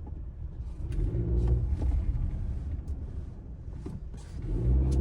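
Honda Civic RS Turbo's turbocharged four-cylinder engine and drivetrain rumbling at low speed as the car is driven through a right turn, the engine note swelling briefly about a second in and again near the end. This is a test for the knocking of a worn CV joint, and no such knock is heard.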